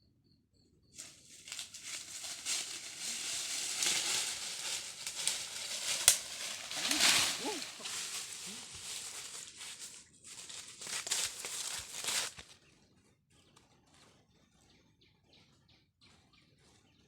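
Loud rustling and crinkling, like wings or dry vegetation being stirred, starting about a second in and stopping abruptly near twelve seconds, with a short break before the last part; after that only faint ticks.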